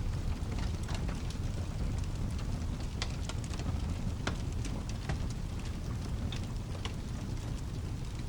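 Layered storm-and-fire ambience: steady rain over a low, continuous rumble, with scattered sharp crackles and pops from a fireplace.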